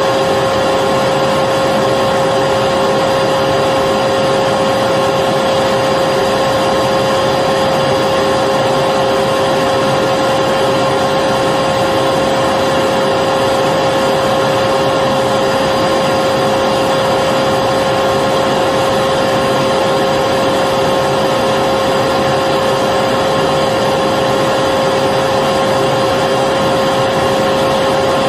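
Electric vacuum cleaner running continuously at a steady pitch: an even rushing of air with a constant motor whine.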